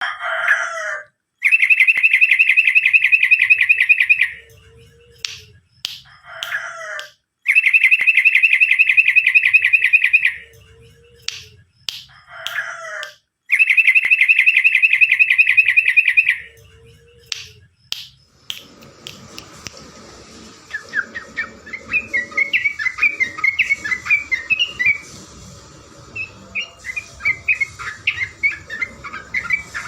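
Yellow-vented bulbul (trucukan) singing. First a short call and a long rapid trill repeat three times in an identical pattern. Then, with a steady hiss behind, it sings runs of quick short chattering notes.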